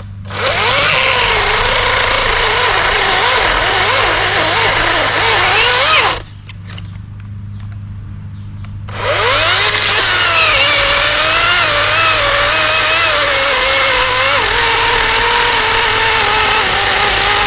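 Greenworks 40V cordless electric chainsaw, fitted with a new Oregon chain, running hard and cutting wood, its motor whine wavering and dipping under load. It lets off for about three seconds partway through, then cuts again.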